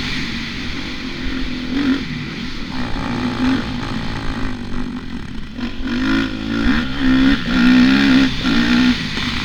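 Motocross dirt bike engine running under varying throttle, its revs rising and falling repeatedly, in quicker swings over the last few seconds.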